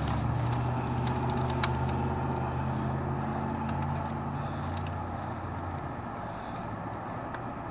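Car engine idling with a steady low hum that fades somewhat after about five seconds, with one sharp click about a second and a half in.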